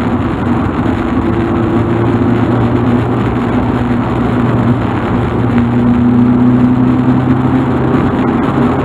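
Mk2 Volkswagen Golf driving along, its engine running with a steady hum over road noise.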